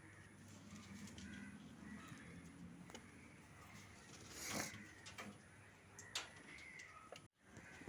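Faint pigeon-loft ambience: a low steady hum, a brief rustle about halfway through and a sharp click a little later. It ends in a short dropout to silence where one clip is spliced to the next.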